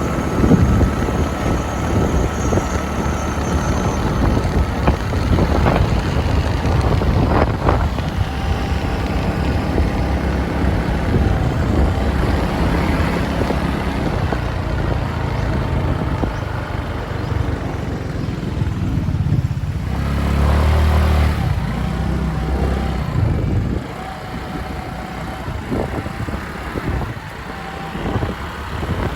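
Motorbike engine running on the road, with wind noise on the microphone. A louder low rumble swells briefly about twenty seconds in.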